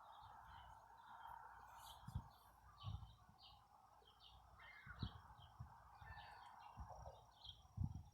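Small birds chirping faintly, short chirps about twice a second, over a steady outdoor background hum, with a few soft low thumps.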